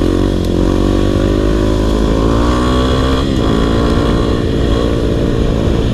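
Dirt bike's single-cylinder four-stroke engine being ridden at low speed. Its note climbs for about three seconds, then drops suddenly and runs lower.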